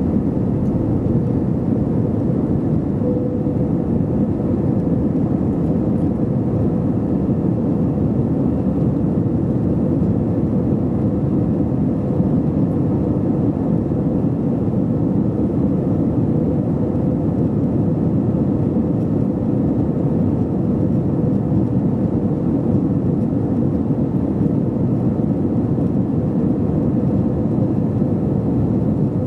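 Steady jet engine and airflow noise heard inside the cabin of an Airbus A321 in flight, a deep, even rumble with a faint steady hum joining about three seconds in.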